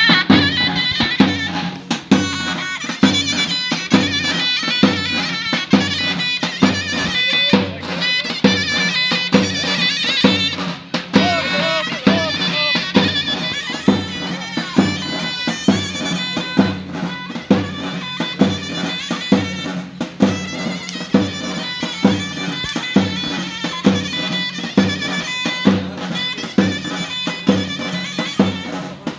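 Davul-zurna folk music: a shrill double-reed zurna melody over a steady davul drum beat.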